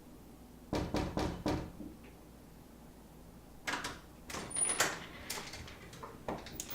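A wooden door knocked on four times in quick succession, then a cluster of sharper clicks and rattles from the door's handle and latch as it is worked and the door is opened.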